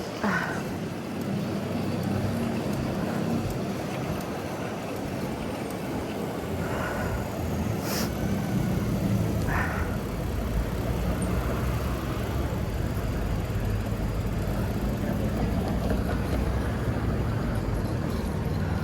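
Steady city traffic noise heard from a bicycle, a continuous low rumble of passing cars, with a short sharp click about eight seconds in.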